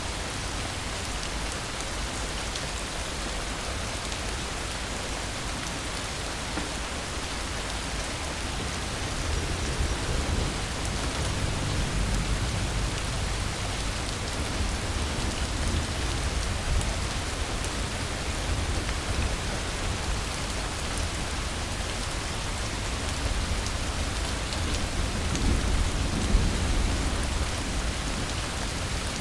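Steady rain falling, an even hiss of drops on surfaces, with low rumbles of distant thunder swelling twice, about a third of the way in and again near the end.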